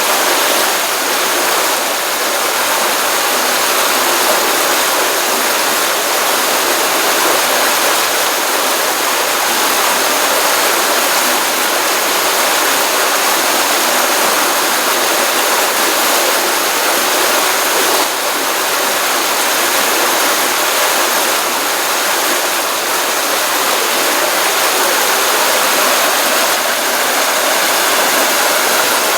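Steady rush of a small stream of water running over rocks into a pond, a continuous even splashing hiss.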